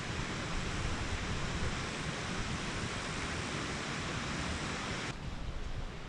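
Steady hiss of typhoon rain over a low rumble of wind on the microphone; the hiss cuts off abruptly about five seconds in, leaving the wind rumble.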